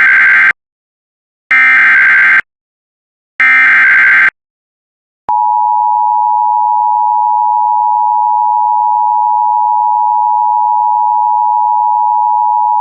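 Emergency Alert System alert opening: three short bursts of warbling digital SAME header tones, each under a second, then, about five seconds in, the steady EAS two-tone attention signal held for about eight seconds.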